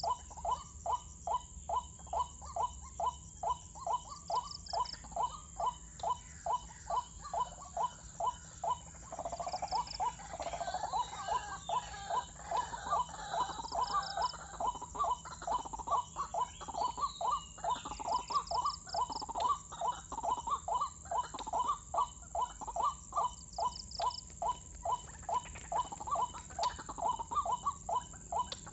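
Burung kuak calling over and over in a quick, even rhythm of about two calls a second. From about 9 to 15 seconds in, a denser jumble of overlapping calls joins it. A faint steady high whine runs underneath.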